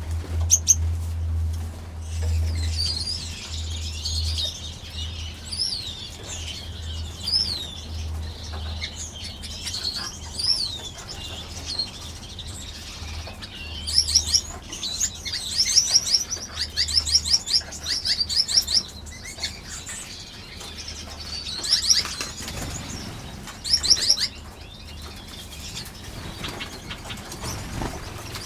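Many small aviary finches chirping and trilling in short, high calls, with a dense burst of quick trills about halfway through, and now and then a brief flutter of wings. A steady low hum runs underneath for the first half.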